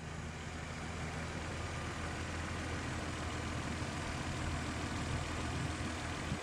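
Toyota Supra MK3's 7M-GTE turbocharged straight-six engine idling steadily.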